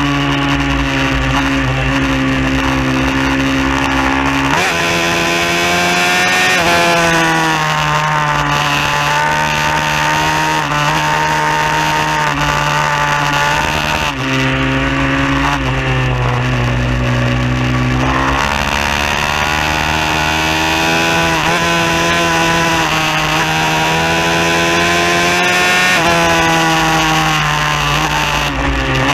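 Bucci F15R pit bike engine at racing pace, its note climbing under throttle and dropping sharply again and again with gear changes and braking into corners.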